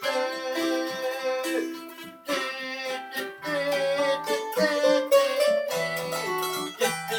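Acoustic plucked-string instruments playing an instrumental passage of a country-blues tune in the key of G, a melody of plucked and held notes over a lower accompaniment.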